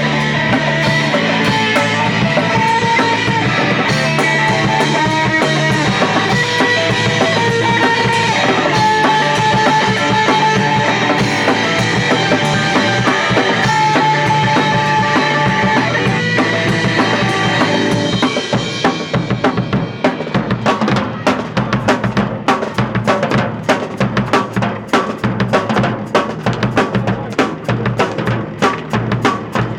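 Loud rock music with guitar and a drum kit. About two-thirds of the way through, the sustained guitar thins out and the drum kit's rhythmic hits come to the fore.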